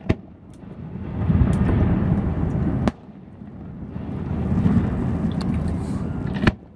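Aerial fireworks shells bursting: a few sharp cracks, one near the start, one about three seconds in and a loud one near the end, with long deep rumbling booms between them.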